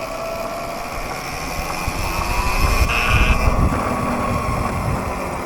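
Electric dirt bike motor whining while riding, its pitch slowly rising as it speeds up, over wind rumble on the microphone.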